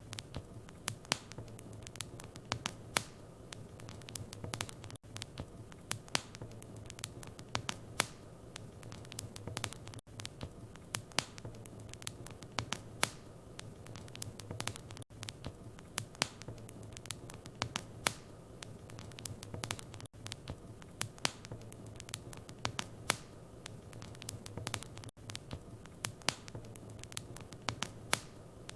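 Wood fire burning in a fireplace, with steady irregular crackles and pops over a low rushing hum of the flames, and a brief dropout about every five seconds.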